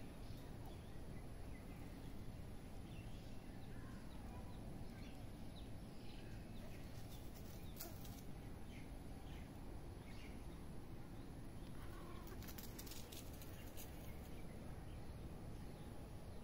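Faint, scattered bird calls over a steady low background noise, with a few sharp clicks about halfway through and again a few seconds later.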